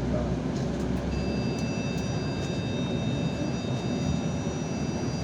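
Steady engine and road noise inside a Yutong ZK6128HG city bus under way, with a thin high whine of several steady tones setting in about a second in.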